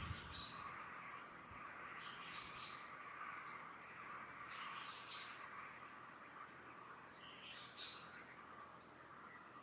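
Distant birds chirping in a series of short, high, rapid trills, the longest lasting about a second around the middle, over a faint steady rustle of banana leaves in a light breeze.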